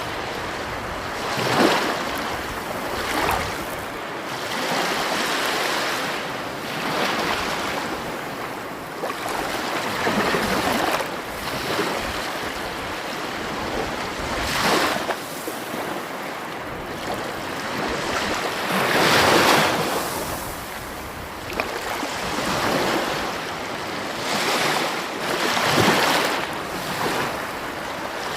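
Sea waves breaking and washing in: a continuous rush of surf that swells every few seconds, with the largest surge a little past the middle.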